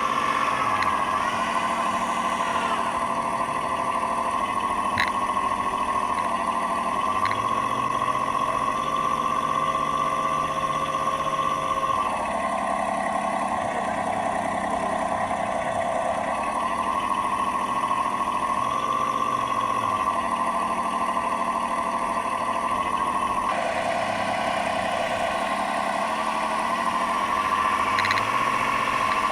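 Simulated diesel engine sound from a 1/12 scale Tyne class lifeboat model's onboard sound unit, running steadily but shifting pitch and character every few seconds. The unsteady engine note comes from a failing speed controller.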